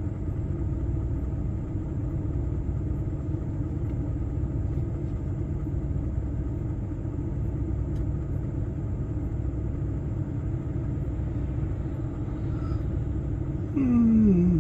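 Steady low rumble of a lorry's diesel engine and cab heard from inside the cab in slow traffic. Near the end a short, louder sound falls in pitch.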